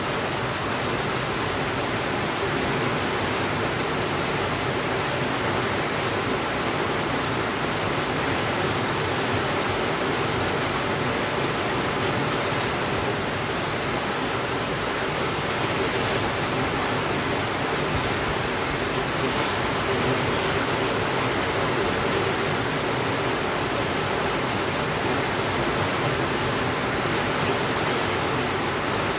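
Steady rainfall: an even, unbroken hiss with no thunder.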